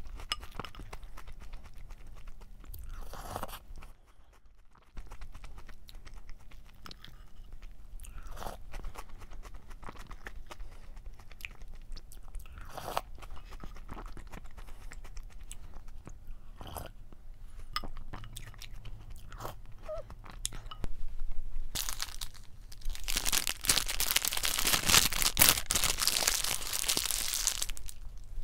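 Close-up chewing and crunching of Jolly Pong puffed-wheat cereal in milk, in scattered crunches. Near the end comes a louder, denser stretch of crackling that fits a paper burger wrapper being crinkled.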